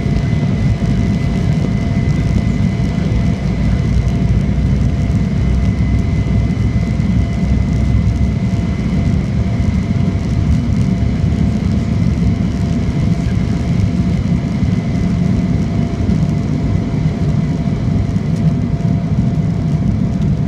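Jet airliner cabin noise: the engines running with a steady deep rumble and a steady high whine. There is no rise or fall in level.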